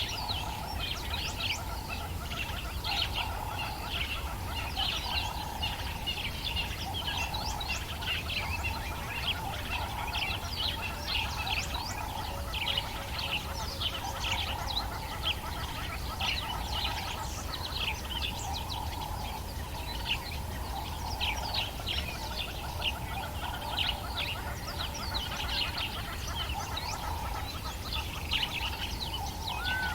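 Dawn chorus: many birds calling and chirping at once, a dense stream of short high notes over a steady lower band of calls, with a low steady rumble underneath.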